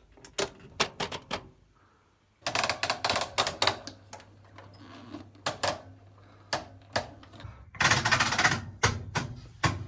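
Washing machine programme selector dial being turned, clicking through its positions in quick runs of sharp clicks with single clicks in between. A low steady hum comes in about two seconds in.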